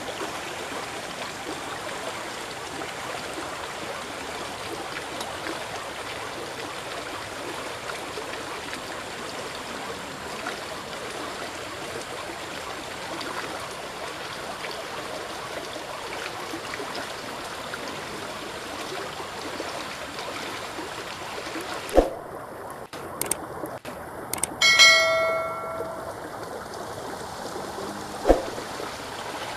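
Steady rush of flowing river water. About 22 seconds in come a few sharp clicks, then a short ringing tone with several overtones, and one more click near the end.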